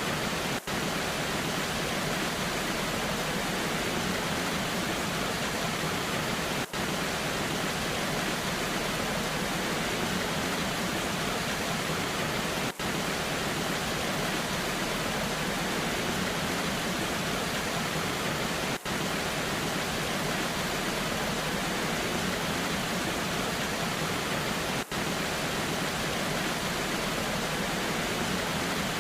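Waterfall rushing steadily in a dense, even roar of water, with a very brief dip in level about every six seconds.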